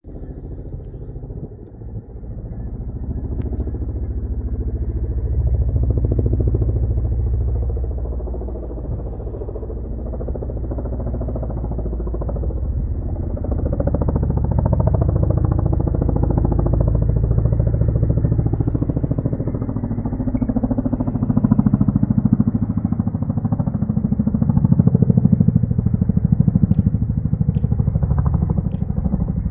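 Boeing CH-47 Chinook tandem-rotor helicopter, a deep rotor rumble with rapid blade beating. It grows louder over the first few seconds, dips briefly, then swells louder again toward the end.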